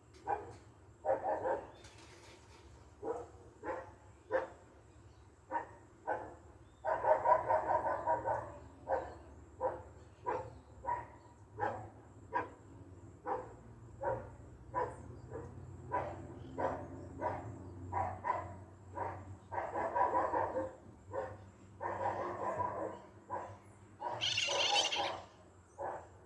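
A dog barking over and over, about one bark a second, breaking into flurries of quicker barking a few times. Near the end there is a higher-pitched, hoarse call.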